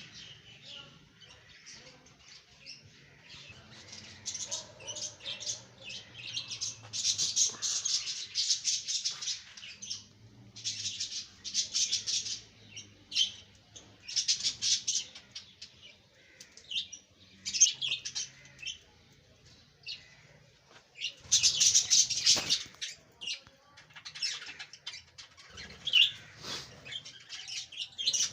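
A flock of budgerigars chattering in an aviary: overlapping fast, high chirps and warbles that come in louder bursts every few seconds.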